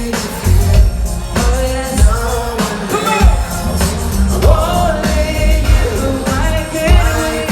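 Live R&B vocals sung over a band backing with a heavy bass beat.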